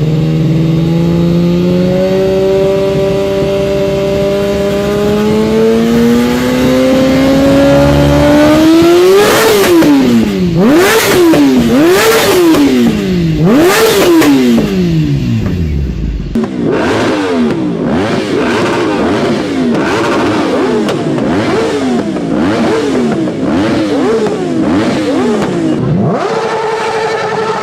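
Motorcycle engine revving through its exhaust. The revs climb slowly for about nine seconds, then come sharp throttle blips that rise and fall about every one and a half seconds with several sharp cracks. After a deep drop there are quicker blips, and the note settles steady near the end.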